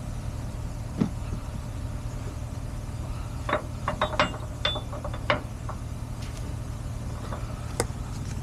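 Heavy truck engine idling steadily under scattered metallic clinks and clanks of tow chains and hooks being handled, most of them clustered in the middle of the stretch.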